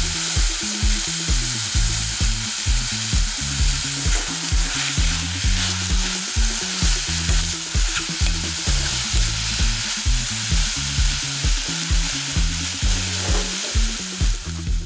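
Mushrooms, onion and capsicum sizzling in oil and butter in a nonstick frying pan, stirred and tossed with a wooden spatula.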